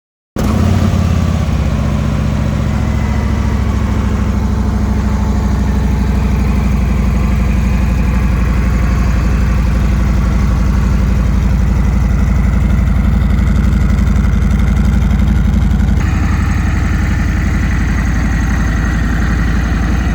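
Harley-Davidson Milwaukee-Eight V-twin, fitted with an S&S 475 cam and an aftermarket exhaust, idling steadily and loudly. The sound starts abruptly and shifts in tone suddenly late on.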